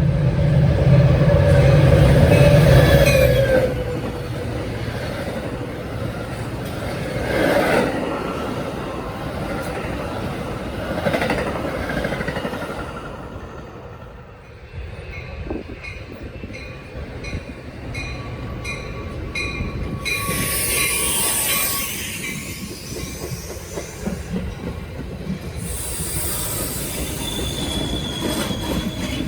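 Train passing on the tracks: a loud locomotive engine in the first few seconds, then rail cars rolling by with a rumble and bursts of high-pitched wheel squeal.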